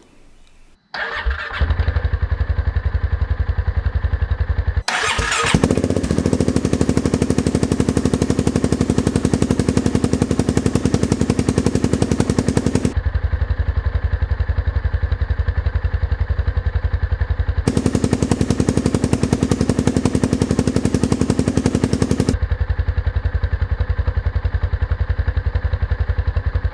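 Polaris RZR 570's single-cylinder engine running through an aftermarket Big Gun exhaust, a loud, steady, rapid exhaust pulse. It comes in about a second in, breaks off briefly near five seconds, then runs on evenly.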